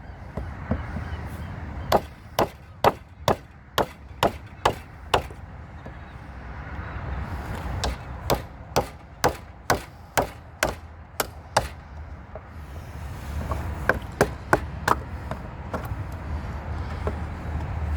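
Repeated sharp blows on wood in three runs of about two strikes a second, the last run of four lighter than the others. A low rumble builds underneath in the second half.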